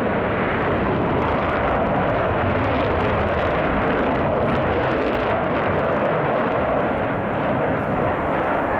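Jet aircraft engines: a loud, steady rushing noise that holds without change.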